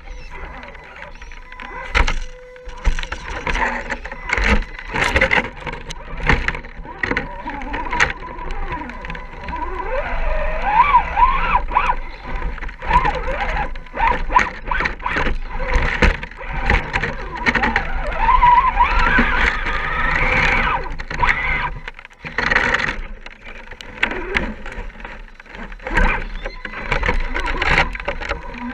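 1/10-scale RC rock crawler's electric motor and geartrain whining, the pitch rising and falling with the throttle. Frequent sharp clicks and knocks come from the truck crawling over rough ground.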